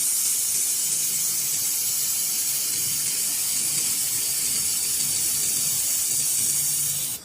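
Handheld fiber laser welding machine working on metal: a steady, loud hiss, bright and high-pitched, that cuts off suddenly at the end.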